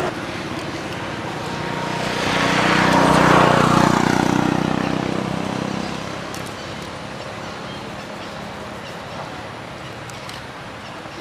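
A motor vehicle passing by: engine and tyre noise swells, is loudest about three to four seconds in, then fades, leaving steady background noise.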